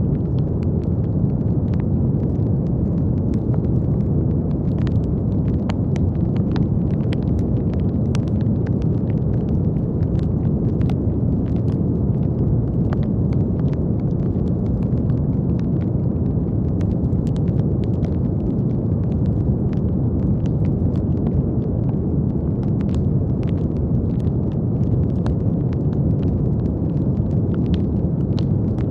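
Steady brown noise: an even, deep rushing hiss weighted to the low end, unchanging in level. Faint crackles are sprinkled through it, a few every second.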